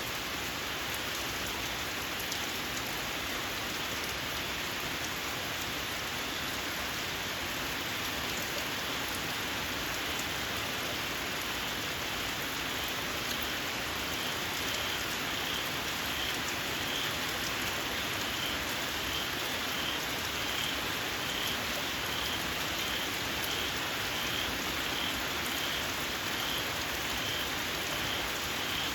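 Steady rain falling on surfaces. About halfway through, a small frog starts calling, a short high-pitched note repeated a little more often than once a second.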